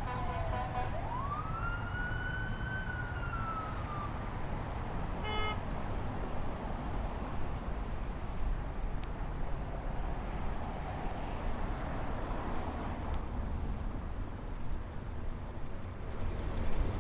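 Emergency vehicle siren wailing: its pitch falls, sweeps back up and holds, then fades out about four seconds in. Steady street-traffic rumble continues underneath, with a short beep about five seconds in.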